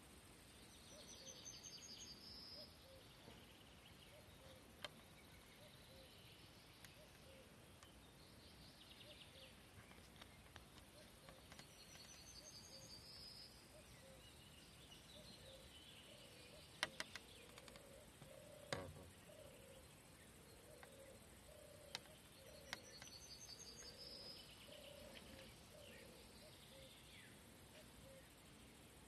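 Faint outdoor quiet with a songbird singing a short trilled phrase three times, about ten seconds apart. A few sharp clicks stand out, the loudest about two-thirds of the way through.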